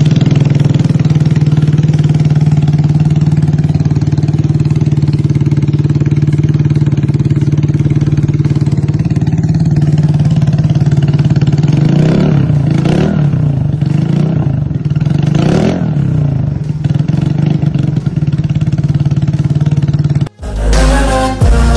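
Vespa automatic scooter's single-cylinder four-stroke engine idling steadily through a Rob1 stainless-steel aftermarket racing exhaust, then given several quick throttle blips that rev it up and back down a little past halfway. Near the end it cuts off suddenly and music starts.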